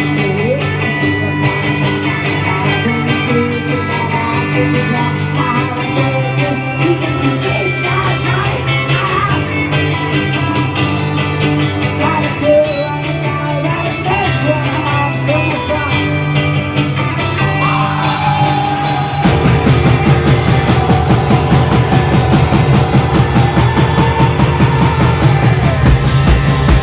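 Rock band playing live, with electric guitars and a drum kit keeping a fast, steady cymbal beat; the band gets louder and fuller about two-thirds of the way through.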